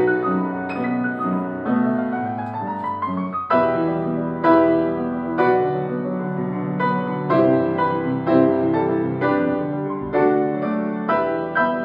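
Piano duet: a rising run of notes about a second in, climbing to a loud chord near 3.5 seconds, then chords and melody struck in a steady rhythm.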